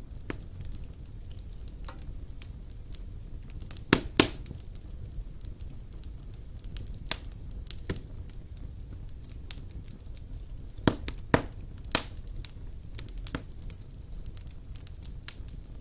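Wood fire burning in a fireplace: irregular crackles and sharp pops from the burning logs over a steady low rumble of the flames. A pair of loud pops comes about four seconds in, and another cluster of loud pops comes around eleven to twelve seconds.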